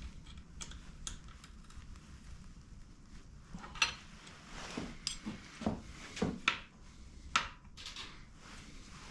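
Metal tools and parts being handled, clinking and knocking against each other in a string of separate sharp clinks, several of them loud.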